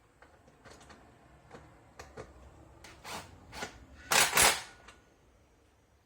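A series of light clicks and knocks at uneven spacing, like hard parts or tools being handled, with two loud knocks close together about four seconds in.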